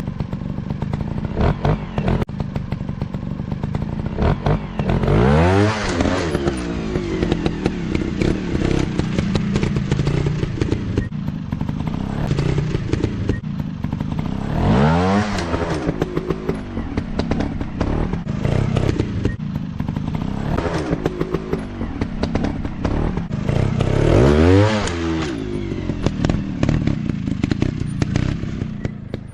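Motocross dirt bike engine running, revved hard three times with rising then falling pitch, about a fifth of the way in, halfway and near the end, between stretches of lower running with clattering.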